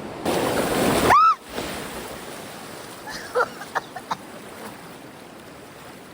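River water rushing steadily, with a loud burst of splashing about a third of a second in that stops after about a second, ending in a short pitched sound that rises and falls. A few faint short chirps follow about three to four seconds in.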